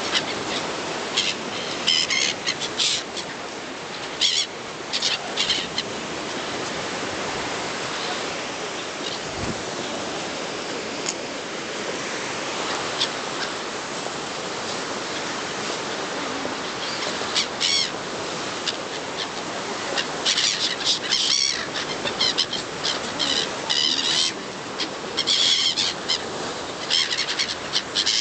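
Small birds chirping in quick bursts of short, high calls, busiest near the start and over the last third, over a steady background hiss.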